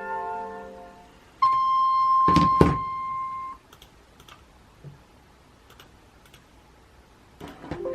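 Music fades out, then a steady electronic beep holds for about two seconds, with a couple of loud thumps in the middle of it. Faint scattered clicks follow.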